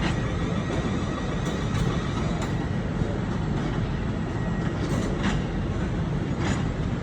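Train running on the rails: a steady low rumble with a few short clicks in the second half.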